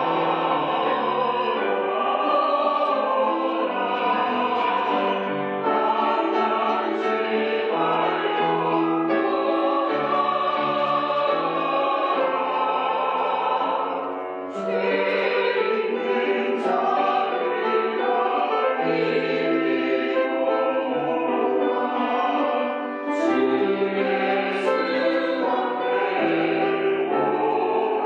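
Church choir singing a slow hymn in parts, with long held notes and two short breaks between phrases.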